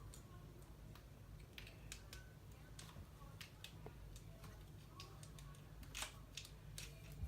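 Faint, irregular clicks of plastic LEGO pieces being handled and pressed together, over a steady low hum.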